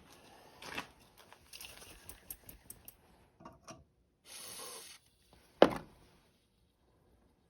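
Workshop handling sounds: scattered light clicks and rustling, a brief scraping rush just past halfway, then one sharp knock, as of wood or a tool set down hard.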